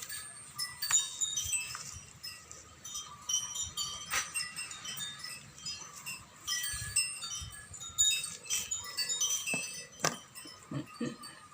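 Wind chimes tinkling irregularly: many short, clear ringing notes at different high pitches overlapping one another, with a few soft knocks among them.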